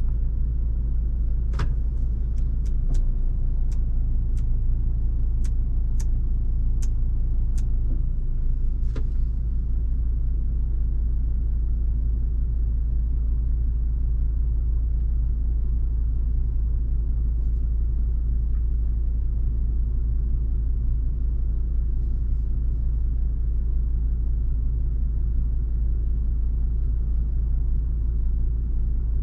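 Volvo V70 2.5T's turbocharged five-cylinder engine idling smoothly and steadily, heard from inside the car as a low, even rumble. A run of sharp ticks sounds over the first nine seconds or so.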